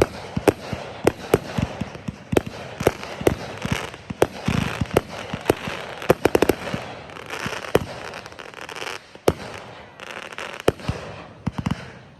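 Fireworks going off: a string of sharp bangs and pops at uneven intervals, with a quick rattling run of pops about six seconds in.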